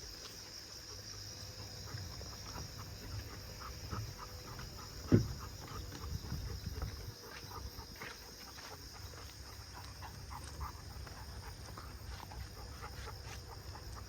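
Golden retriever making one short, low sound that drops in pitch about five seconds in, with soft small ticks and rustles around it.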